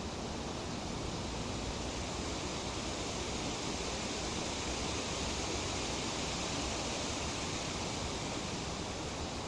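Breeze rustling through tree leaves: a steady, even hiss that swells a little in the middle.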